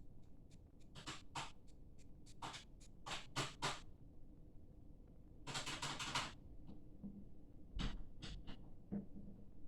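A series of short scratchy, rustling noises, about eight in all, one of them longer in the middle.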